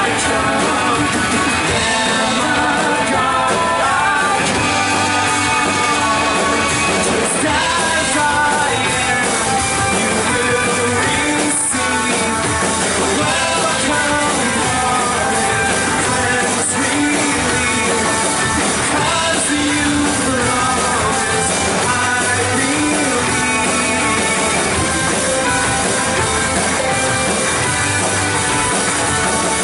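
Worship band playing a rock-style song with electric guitar, drums and singing voices.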